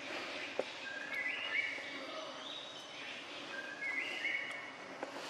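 Birds calling: short, clear whistled notes that step upward in pitch, repeated in two phrases a few seconds apart over a steady background hiss, with one faint click early on.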